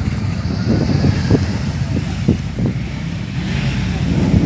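Car engine running with a low, pulsing rumble, and wind on the microphone.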